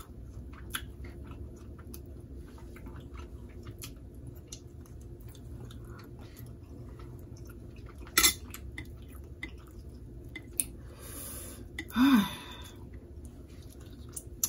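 Close-up eating sounds of a seafood boil: wet chewing and smacking with many small clicks, a sharp click about eight seconds in and a brief rustle around eleven seconds. About twelve seconds in there is a short vocal sound falling in pitch.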